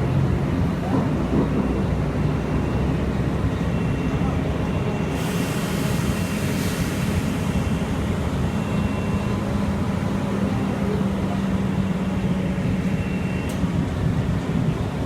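Road traffic running steadily, with a low engine hum, and a brief hiss about five seconds in.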